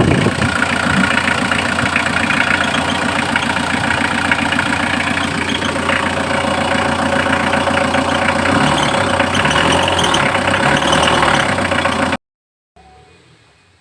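Mitsubishi L300 FB van engine idling steadily; the sound cuts off abruptly near the end.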